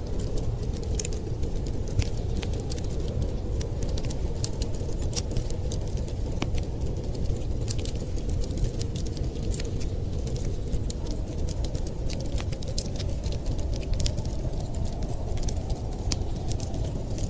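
Wood fire crackling, with many sharp irregular pops and snaps over a steady low rush.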